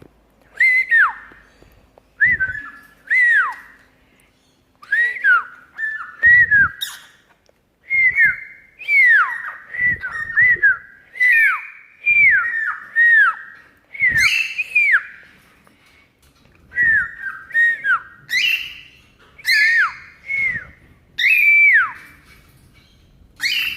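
Pet bird whistling: a long run of short, clear whistled notes, most dropping in pitch, given in quick phrases with brief pauses and a few harsher notes mixed in.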